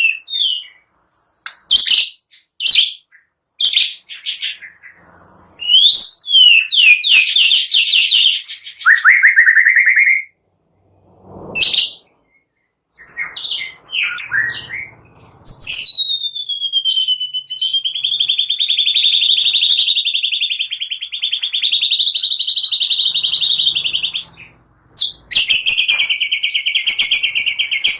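White-rumped shama in full, energetic song: a varied run of short, loud whistled phrases and fast trills, then a long rattling trill held for about nine seconds from about halfway through, and another dense trill near the end.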